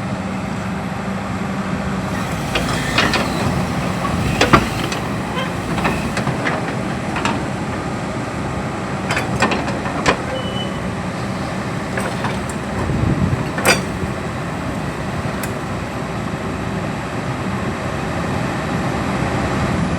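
Hydraulic excavator's diesel engine running, with scattered sharp knocks and clanks.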